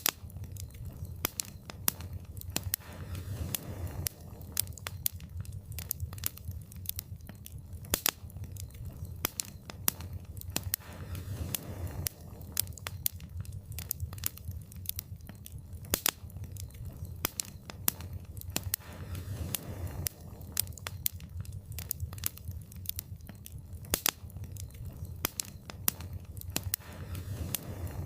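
Wood fire burning in a fireplace, crackling steadily: frequent sharp pops and snaps over a low, even rumble of the flames.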